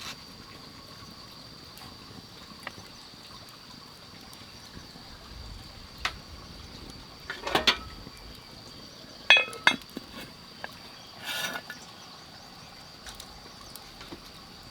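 Scattered clinks and knocks of hard objects, one with a short ring, along with a brief splash of water, over a steady high insect-like drone.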